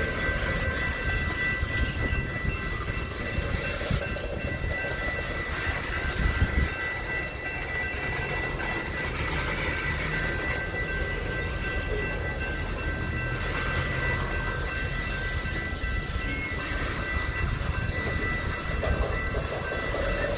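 A train rolling past, a steady low rumble with irregular clatter of wheels over the rails, and a thin high-pitched tone held throughout.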